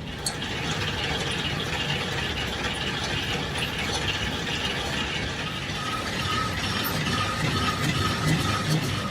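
A machine tool running steadily, a dense mechanical rattle, with a faint squeak repeating about three times a second in the last few seconds.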